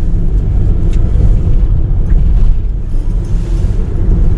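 Car being driven, with a steady low rumble of road and engine noise heard inside the cabin.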